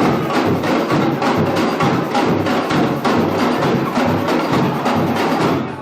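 Brazilian bateria, a samba-style drum and percussion ensemble, playing a fast, loud, driving rhythm of many strikes, breaking off just before the end.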